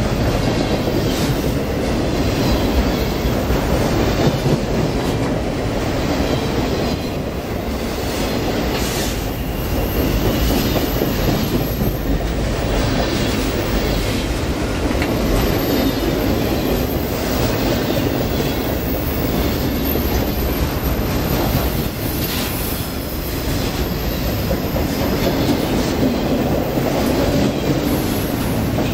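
CSX freight train boxcars rolling past at close range: a steady, loud rumble of steel wheels on rail, with occasional clacks as the wheels cross rail joints.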